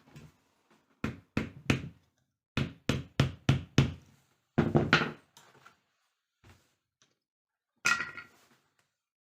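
A series of sharp knocks: three quick ones, then five in a row, then a longer, rougher knock and one more near the end.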